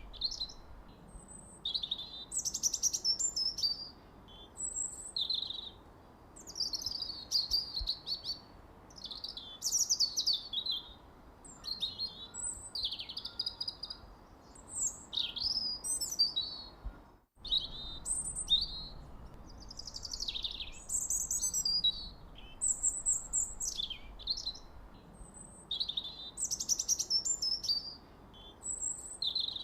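Birds chirping and singing in short, high, quick phrases, one after another with brief pauses. The sound drops out completely for an instant a little over halfway through.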